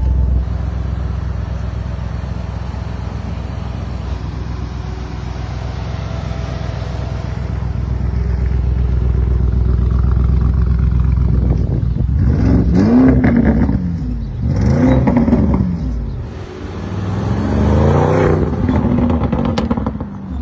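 Lamborghini Urus Mansory Edition's 4-litre twin-turbo V8, with its aftermarket exhaust, running at a steady low rumble. From about twelve seconds in it revs hard in three surges, the note rising and falling with each.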